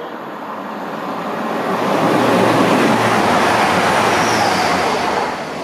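Grand Central Class 180 diesel multiple unit passing through the station at speed. Its wheel, rail and engine noise, with a low steady hum beneath, swells to a peak about two to three seconds in and then fades as it goes by.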